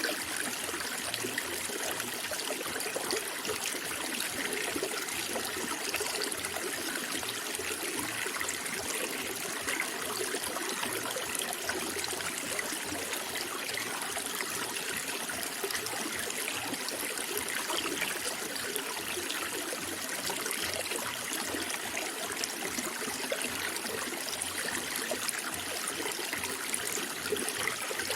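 Running water trickling and splashing steadily, an even, unbroken rush with no pauses.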